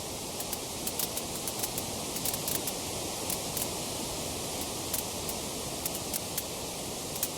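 Wood fire crackling: irregular sharp snaps and pops, several a second, over a steady hiss.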